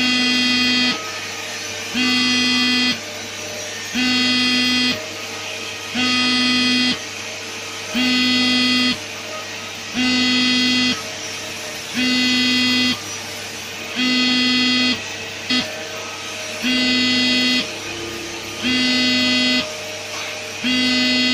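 Electronic alarm buzzer beeping in a steady on-off pattern, each harsh buzzy beep lasting about a second with a second's gap, over a steady low machine hum.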